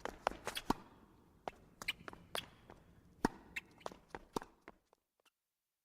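A quick, irregular series of sharp taps and knocks, more than a dozen, stopping about five seconds in.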